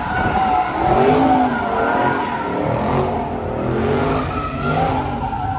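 Car tires squealing in a wavering, up-and-down pitch over the rumble of a running engine, as a car spins its wheels in a burnout or donut.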